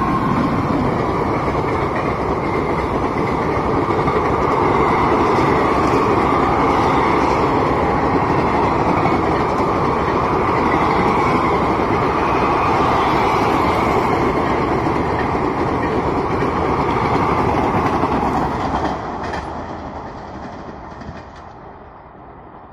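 Indian Railways express train of passenger coaches running through a station at high speed: a steady, loud rumble and clatter of wheels on the rails, fading away about nineteen seconds in as the train passes.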